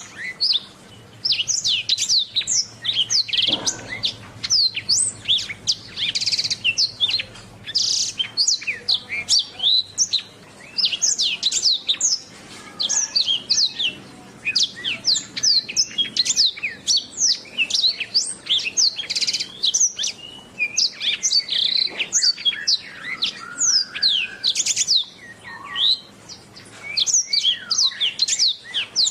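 Domestic canary singing a long, fast song of rapid chirps and trills, pausing only briefly now and then.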